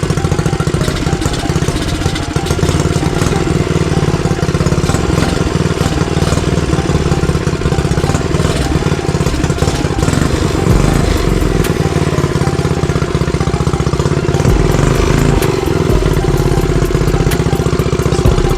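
Motovox mini bike's small gas engine running, with the pitch of its low end shifting a couple of times in the second half. It is not running right after being idled down; the owner believes the carburetor floods while the bike leans over on its kickstand.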